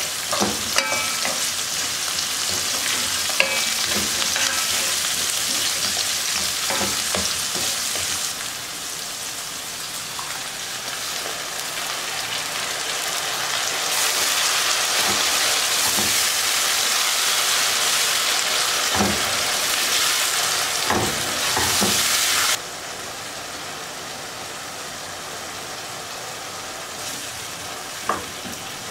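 Onions and carrots frying in oil in a pan, a steady sizzle, stirred with a wooden spatula that knocks and scrapes against the pan now and then; later the pan also holds grated tomato. The sizzle drops abruptly about three-quarters of the way through.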